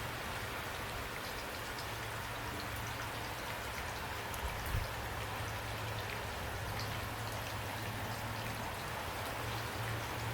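Steady rain falling, with a dense even hiss and individual drops ticking on a surface.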